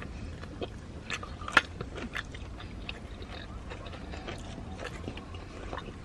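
Close-up chewing and biting of a crispy fried chicken sandwich: scattered small crackles and mouth clicks, the sharpest about one and a half seconds in.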